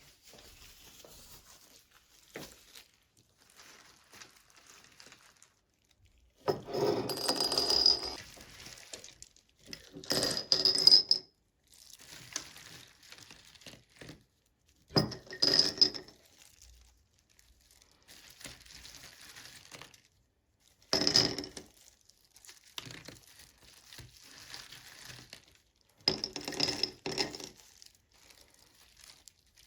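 Dishes and glassware clattering and clinking in about five separate bursts, some with a short bright ring, between quieter handling sounds.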